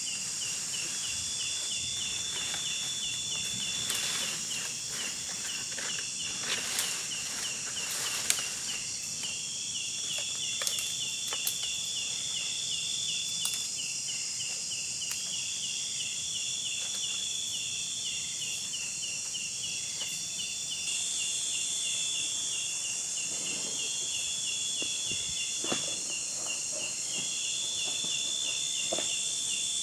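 Chorus of insects: a fast, evenly repeated chirping with long, high, steady buzzes over it. A few light rustles and clicks come through, mostly early on and again about three-quarters of the way through.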